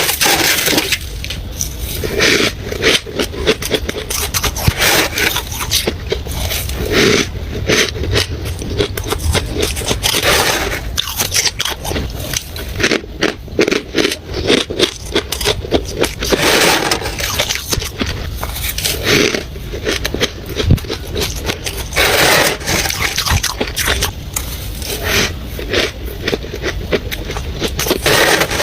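Dry freezer frost being chewed up close: a steady run of squeaky, crackling crunches with louder bites every second or two.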